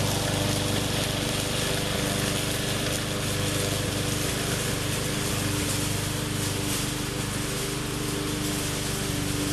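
20-inch walk-behind push mower's small engine running steadily, with a broad hiss over its hum.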